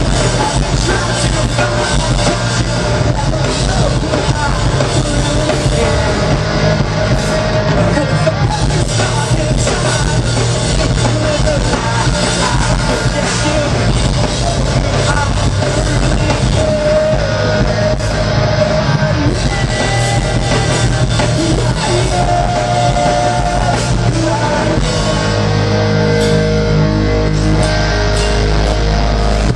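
Live rock band playing a song: guitars, drum kit and a singer, loud and continuous.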